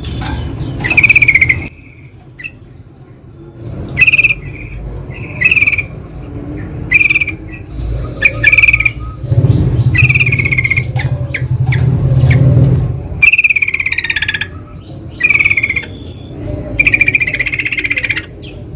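Yellow-vented bulbuls (trucukan) calling in the wild: short, loud, bubbly chattering phrases repeated about once a second, with a thinner high whistle from another bird in the middle. A low rumble runs underneath for a few seconds in the middle.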